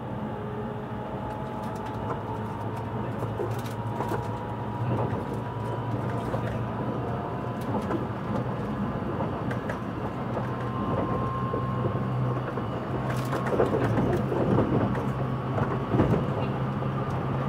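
Tobu Railway electric train running, heard from inside the car: a steady rumble of wheels on rail with a motor hum and a few steady whining tones. Scattered clicks from the rails grow denser and louder toward the end, as the train runs over the tracks into a station.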